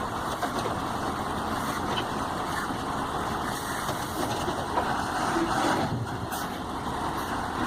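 Heavy truck running: a steady, noisy engine sound with a few faint clicks.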